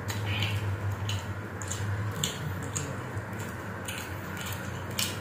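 Close-miked chewing and lip-smacking on saucy chicken: irregular wet clicks and squelches, several a second, over a steady low hum.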